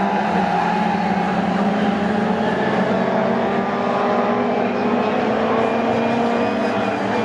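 Racing engines of pre-1966 touring cars running at speed on track: several engines heard together as a steady drone, with one rising slowly in pitch around the middle.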